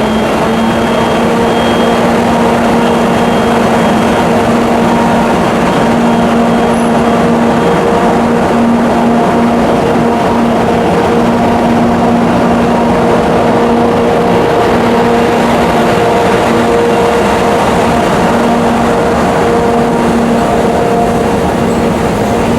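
Electric train at a station: a loud, steady running noise under a constant hum that holds one pitch throughout.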